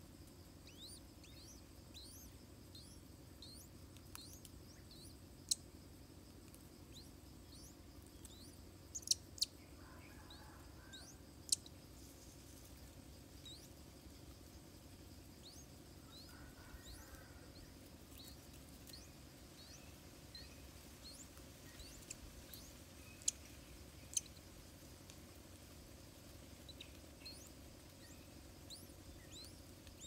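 Faint bird chirping: many short, thin, falling high notes, about one or two a second, with about six sharp clicks scattered through.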